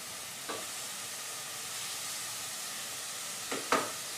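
Steady hiss of background noise, with short clicks: one about half a second in and two close together near the end, the second of these the loudest.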